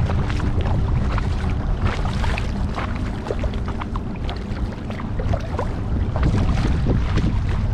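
Kayak paddling on a lake: water splashing and dripping off the paddle and lapping at the hull in many small irregular splashes, over a steady low rumble.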